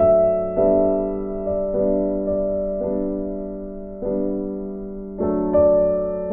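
Soft, slow piano music: sustained chords struck every half second to a second, each fading before the next.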